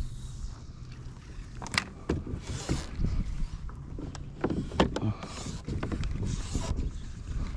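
Kayak on the water: water sloshing and washing against the fishing kayak's hull, with a few sharp knocks on the hull.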